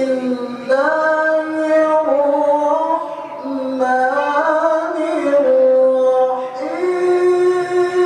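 A Qur'an reciter's voice chanting in melodic tilawah style, holding long drawn-out notes that step up and down between pitches.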